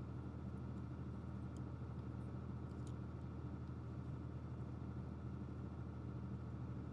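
A steady low mechanical hum, with a few faint light clicks about one and a half to three seconds in.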